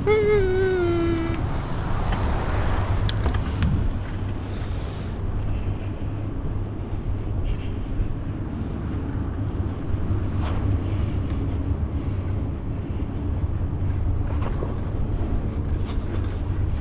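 Steady low rumble and road noise of a vehicle on the move, with a few light clicks; a short drawn-out vocal sound at the very start.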